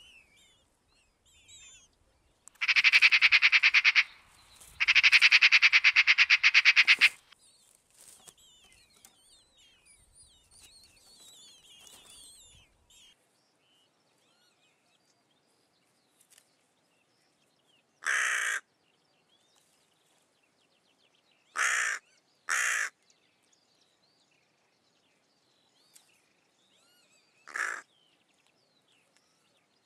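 Eurasian magpie chattering in two long, fast rattles, then, after a pause, a hooded crow giving four harsh caws, the middle two close together. Faint songbird song underneath the first part.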